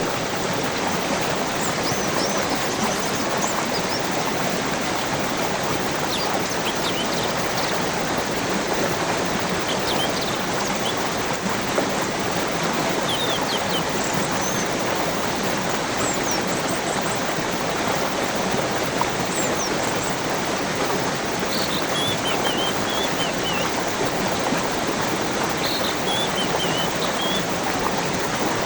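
Flowing stream water running steadily, with small birds chirping now and then above it, including a couple of short falling runs of chirps in the last third.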